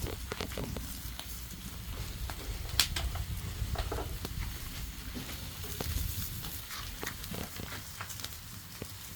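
Food sizzling as it fries, with scattered clicks and knocks and one sharper click about three seconds in.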